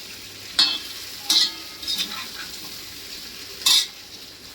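Muthia pieces sizzling in hot tempering oil in a kadhai while being stir-fried with a spatula. The steady sizzle is broken by three loud, short scrapes of the spatula against the pan: about half a second in, about a second later, and again near the end.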